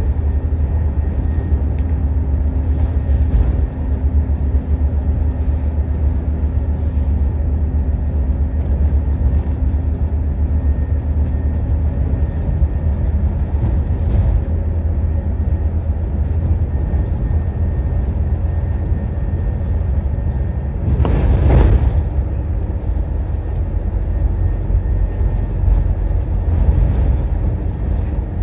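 Scania N230UD double-decker bus heard from on board while running: steady low engine and road noise, with a steady drone that dies away about twelve seconds in. About twenty-one seconds in there is a brief, louder rush of noise.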